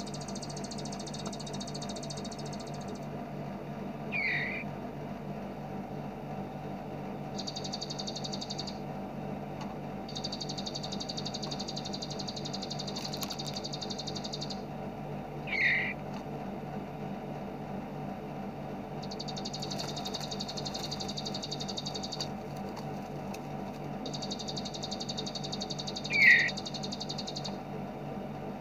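Bar-winged prinia (ciblek) giving its rapid, machine-gun-like 'bren' trill in repeated high bursts of one to four seconds, with three single louder, falling calls spaced about ten seconds apart, over a steady low hum.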